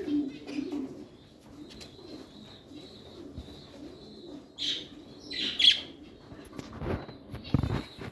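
Pet birds cooing softly in low repeated calls, with a few sharp high chirps about midway and two short flutter-like thumps near the end.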